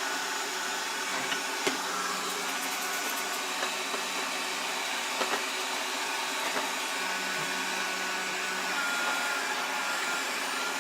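Proscenic 820S robot vacuum running steadily, a constant motor whir with a thin whine over it and a few faint ticks.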